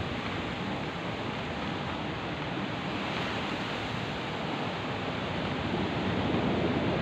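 Steady hiss of heavy rain, with a low rumble of thunder beginning to build near the end.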